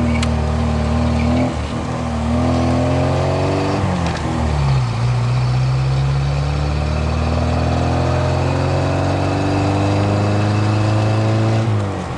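VAZ 2107's four-cylinder engine pulling the car along, its revs climbing and dropping sharply at each gear change: about a second and a half in, at about four and a half seconds, and near the end, with one long slow climb in between.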